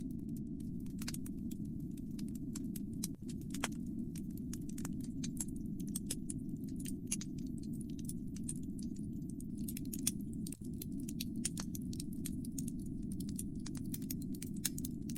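Wood fire in a fireplace crackling: frequent sharp, irregular pops and snaps over a steady low rush of the flames.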